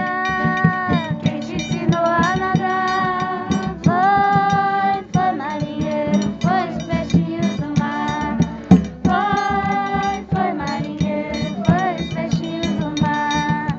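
Live folk music: voices singing long held notes to a strummed acoustic guitar, with a busy, steady rhythm.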